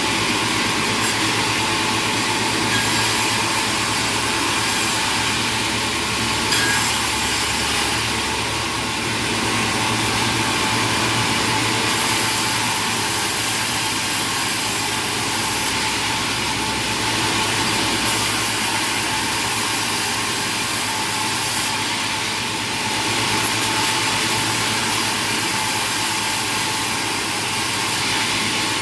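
Sawmill machinery running: a steady, loud mechanical noise of motors and saws, changing abruptly in tone every few seconds.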